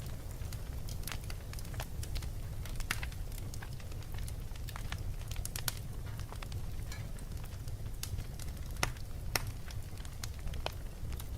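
Crackling fireplace: irregular sharp pops and crackles over a steady low rumble.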